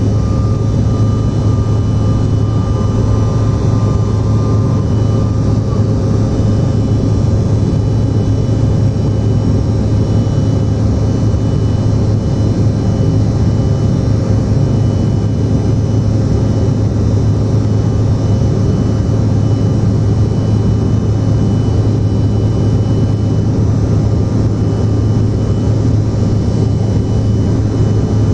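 Steady cabin noise of a CRJ-900 under power, heard from a rear window seat near its two tail-mounted GE CF34 turbofans. There is a deep, even drone with a few faint steady whines over it, and no change in pitch or level.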